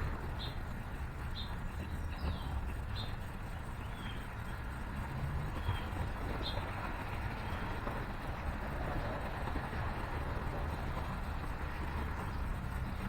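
Steady low rumble of city traffic, with a string of short, high bird chirps about once a second through the first half, which then stop.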